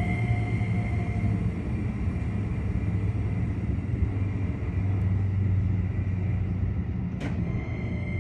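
Keikyu electric train running under way, heard from the driver's cab: a steady rumble of wheels on rail with a faint motor whine that fades early and comes back near the end, and one sharp click about seven seconds in. It runs at reduced speed while the line is checked after an emergency stop for an abnormal noise.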